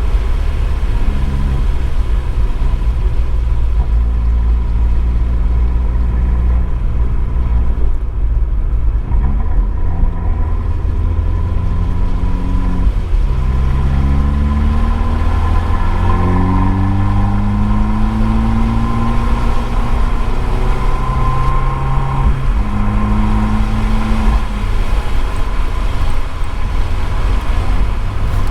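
Abarth 595 esseesse's turbocharged four-cylinder running through an Akrapovič exhaust under track driving. The engine holds a steady note for a while, then climbs in pitch several times as it accelerates, dropping back at each gear change, over a heavy low rumble with some road and rain noise.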